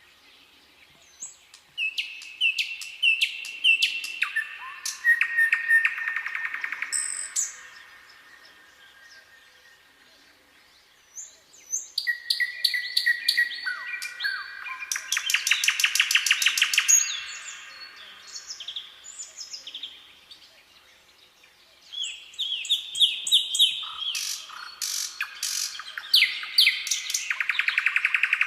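A songbird singing three long song phrases about ten seconds apart. Each phrase is a run of short, clear notes stepping down in pitch that ends in a fast trill.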